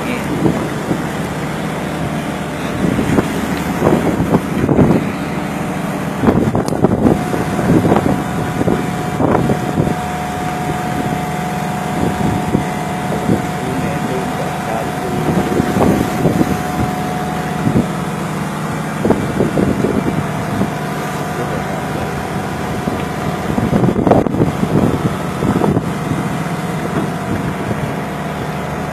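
A tuna fishing boat's machinery running with a steady low hum while storm wind and waves surge against the boat in irregular loud rushes every few seconds. A thin steady whine joins the hum for about ten seconds in the middle.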